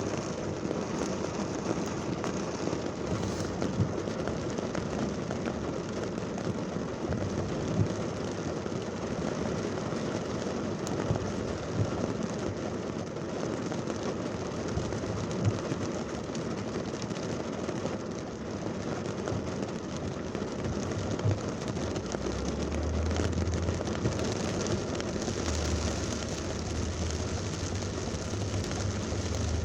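Heavy thunderstorm rain pouring down amid traffic, a steady hiss with scattered sharper drop taps. A low rumble comes in about three-quarters of the way through.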